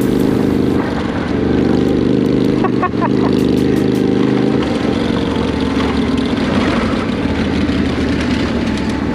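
Honda NC700X parallel-twin engine running at a steady pace while riding on dirt, its note shifting slightly about halfway through.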